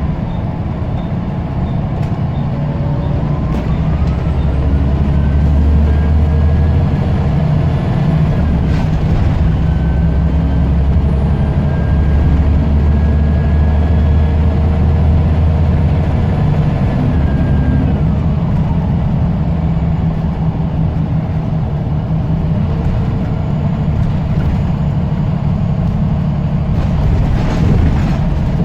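Scania L94UB bus diesel engine running under load, with a thin turbocharger whistle that climbs a few seconds in, holds steady for a long stretch, then slides back down about two-thirds of the way through as the engine eases off. A short noisy burst near the end.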